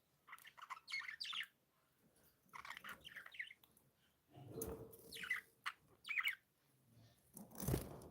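Budgerigars chirping and warbling in three short bouts of quick, wavering chirps. Near the end there is a dull thump, the loudest sound.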